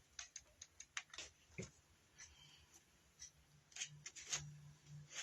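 Faint scattered clicks and light taps of craft materials being handled, with a faint low hum coming in about halfway.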